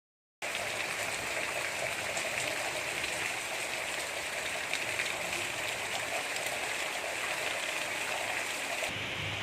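Steady gentle rain falling as a constant patter, starting about half a second in after a brief silence. Near the end the rain turns duller and lower, losing its highest hiss and gaining a low rumble.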